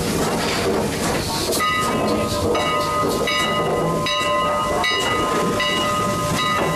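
Canadian National 89, a 2-6-0 Mogul steam locomotive, working with a steady hiss and regular exhaust beats, then its chime whistle sounding about a second and a half in: a chord of several notes held through to the end.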